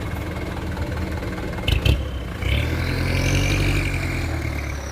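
Dump truck engine running, with two sharp knocks just before the middle, then revving up about halfway through with a rising whine that slowly eases off near the end.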